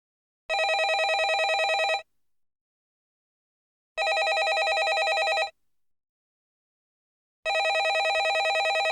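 Landline telephone ringing: three rings, each a fast warbling trill about a second and a half long, starting about every three and a half seconds, with silence between them. The last ring is cut off by the end.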